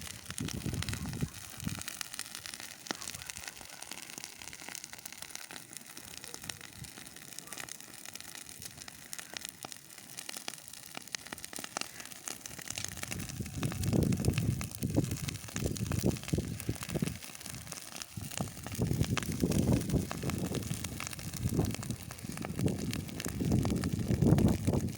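Dry grass burning in a bonfire, crackling with many small pops; from about halfway through, low rumbling gusts swell and fade several times.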